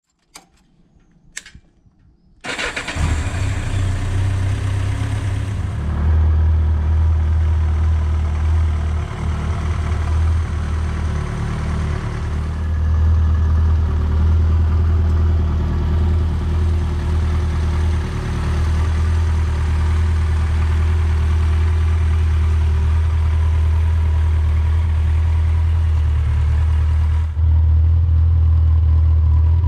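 Yamaha XJ900 S Diversion's air-cooled inline-four being started: two short clicks, then the engine catches about two and a half seconds in and settles into a steady idle.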